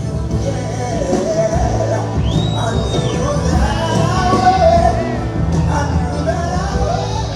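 Live band playing a slow soft-rock song, with a wavering lead vocal line sung without words over the accompaniment.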